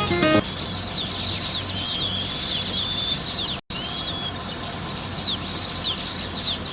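Baya weavers chattering: many short, downward-sliding chirps overlapping continuously. The sound cuts out for an instant about halfway through.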